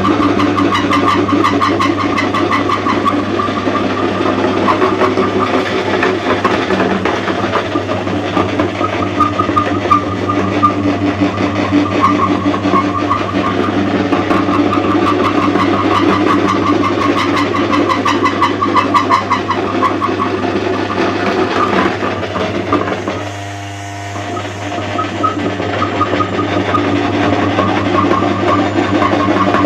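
Electric meat grinder running steadily, its motor humming under a dense crackling as soap is ground through it. The sound drops briefly about three-quarters of the way through, then picks up again.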